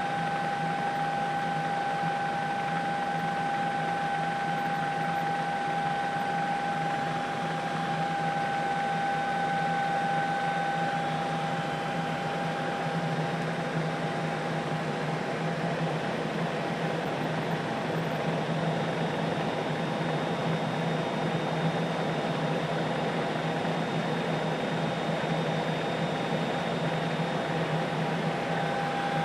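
Steady in-flight noise of a helicopter heard from inside the cabin: a constant low hum with a steady high whine over it. The whine fades somewhat for a while partway through and comes back near the end.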